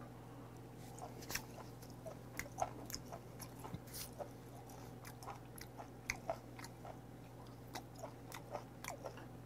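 A person chewing slices of raw beef (beef shank): soft, irregular wet mouth clicks and smacks, a few every second.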